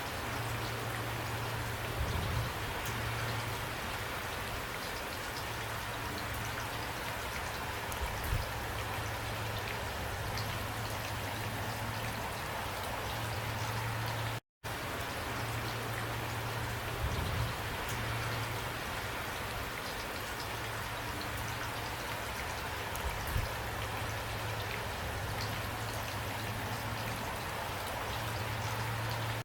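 Steady rain storm: dense rain falling and pattering on surfaces, with a few soft low thumps from drops. The sound cuts out for a split second about halfway through, then carries on.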